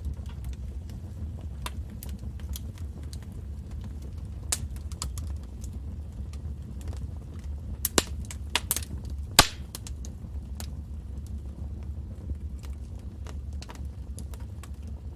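Wood fire in a fireplace crackling: scattered sharp pops and snaps over a low steady rumble, with a short run of louder pops a little past halfway.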